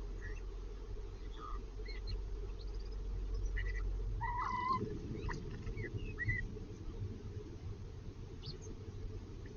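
Small garden birds chirping in short, scattered calls, several bunched together around the middle, over a steady low rush of running stream water.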